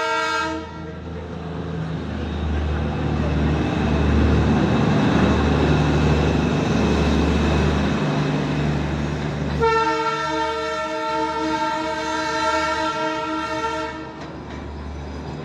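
Diesel locomotive on the Darjeeling Himalayan Railway running with a low drone and a rushing noise. Its horn ends just after the start and sounds again in one long blast of about four seconds, beginning near ten seconds in.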